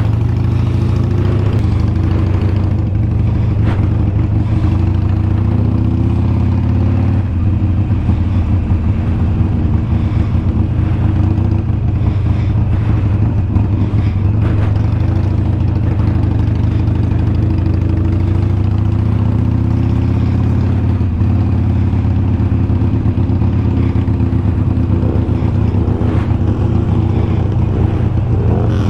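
Harley-Davidson Sportster 883's air-cooled V-twin engine running steadily under way, a deep even rumble with slight rises and falls in engine speed.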